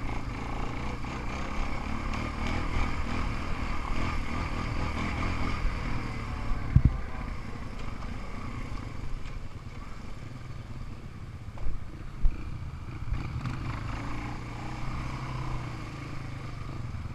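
An off-road vehicle engine runs steadily under way. There are a few sharp low thumps, about seven and again about twelve seconds in.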